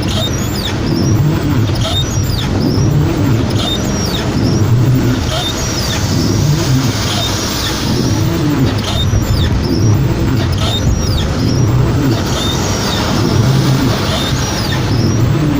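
Heavy rain with steady car engine and road noise, and short high squeaks recurring every second or so.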